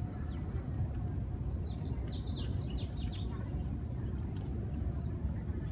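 A bird's quick run of high, falling chirps about two seconds in, over a steady low rumble of outdoor background noise.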